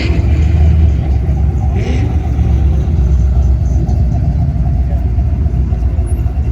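Classic car engines and exhausts passing slowly, a deep steady rumble. There are brief rising engine notes at the start and again about two seconds in.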